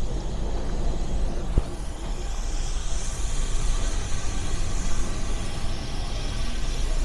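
Heritage railway train rumbling steadily, with a single click about one and a half seconds in and a high hiss coming in after about two and a half seconds.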